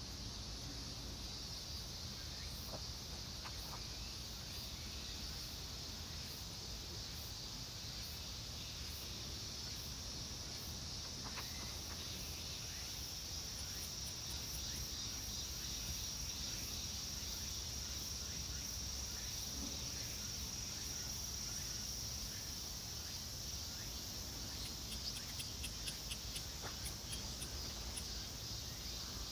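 Insects trilling in a steady, high-pitched drone that swells a little in the middle, with a burst of rapid ticking near the end.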